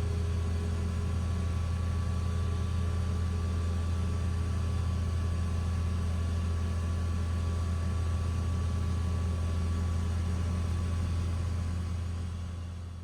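An engine running steadily at idle: a low, even hum with a faint steady whine above it, fading out near the end.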